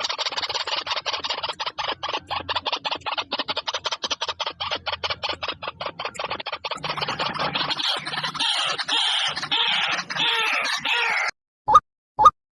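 White-breasted waterhen calling: a fast, harsh chatter of rapid notes that turns into longer croaking notes and breaks off suddenly about eleven seconds in. It is followed by single short rising notes, about two a second, near the end.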